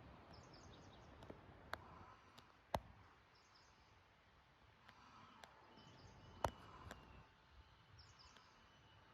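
Faint outdoor ambience: a low wash of noise with small birds chirping in short groups of calls, and a few sharp clicks, the loudest two about a third and two-thirds of the way through.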